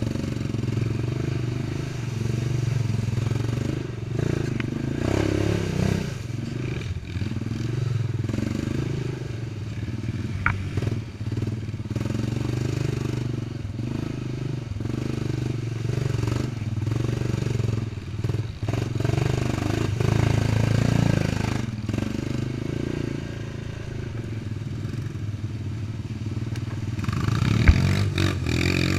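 Quad bike (ATV) engine running steadily, its pitch and loudness shifting with the throttle. Near the end there is a single sharp knock, and the engine note rises.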